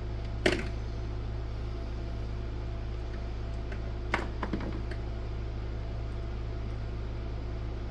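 Small hand tools clicking against a workbench: one sharp click about half a second in and two more around four seconds in, over a steady low hum.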